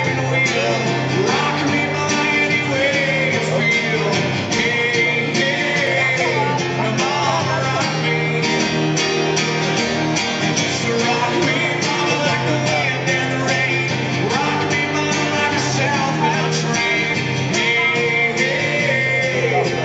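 Live band and singers performing an upbeat song, with a steady strummed beat and a bass line under the vocals.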